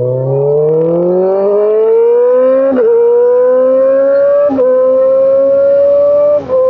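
Kawasaki ZX-10R inline-four with an aftermarket exhaust accelerating hard, the engine note climbing steadily. It is cut by three quick upshifts, about three, four and a half and six and a half seconds in, each dropping the pitch before it climbs again.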